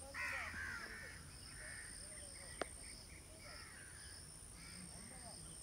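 Birds calling: a series of short, harsh calls every half second or so, faint, over a steady high-pitched whine. There is one sharp click about two and a half seconds in.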